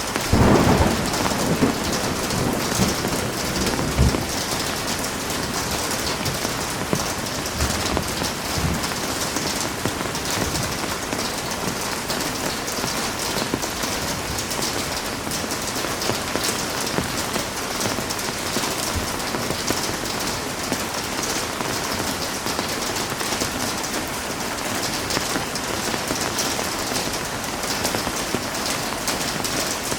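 Heavy rain falling steadily, a dense even hiss of drops on surfaces. A short low rumble comes about a second in, and a few faint low thumps follow in the next several seconds.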